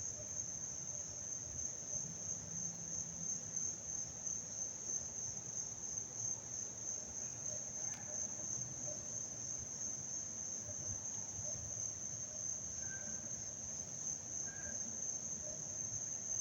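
A steady insect chorus: a continuous high-pitched trill without pauses.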